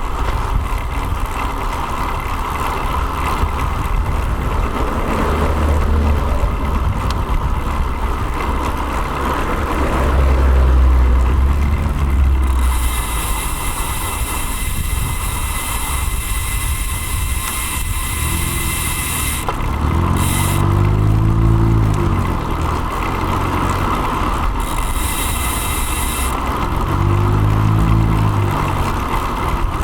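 Wind rushing over a bike-mounted action camera's microphone while riding in road traffic, with the low rumble of motor vehicles. Twice, about two-thirds of the way in and again near the end, a vehicle engine's pitch rises and falls as it passes or pulls away.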